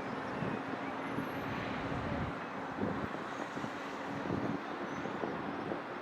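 Steady city traffic noise, a continuous hum of distant road traffic with small swells as vehicles pass.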